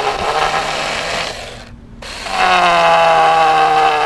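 Battery-powered electric chainsaw with a dull chain, a steady high whine that sags in pitch as it bites into the wood. It cuts off about one and a half seconds in, starts again at full speed, and bogs down again near the end.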